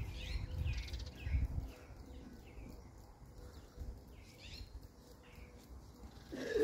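Small birds chirping over and over in short calls, with low wind rumble on the microphone in the first second or so. Right at the end a brief, louder call cuts in.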